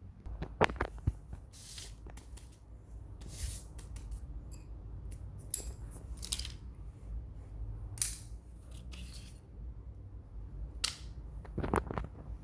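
Handling noises from crochet work: irregular short rustles and scrapes with sharp clicks and taps, the sharpest about a second in and near the end.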